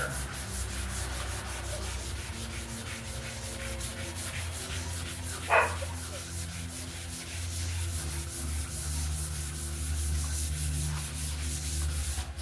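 Wet sandpaper rubbed by hand over the primed fiberglass hull of a boat in quick repeated strokes, a steady wet scratching. A short sharp sound cuts in once about halfway through.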